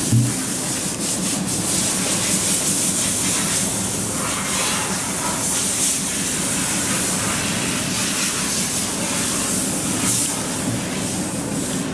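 Isuzu Elf truck's diesel engine idling steadily, with a strong steady hiss over the low engine hum.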